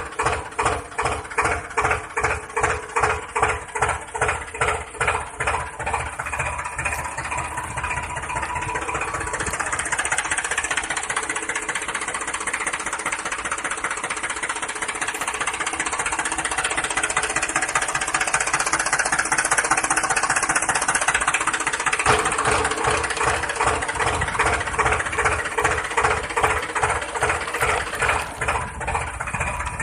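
Engine sound chugging at about two beats a second, then running faster and steadier from about six seconds in.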